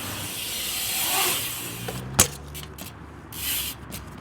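Dirt jump mountain bike tyres rolling on concrete with a rising hiss, then one sharp landing impact about two seconds in, followed by a few light clicks and rattles from the bike.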